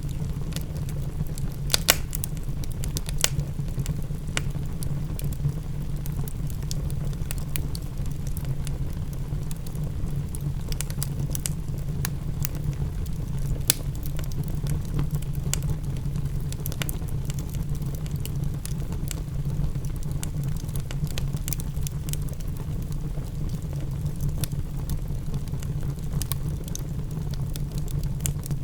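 Wood fire crackling, with scattered sharp pops, the loudest about two seconds in and near the middle, over a steady low rush of rain.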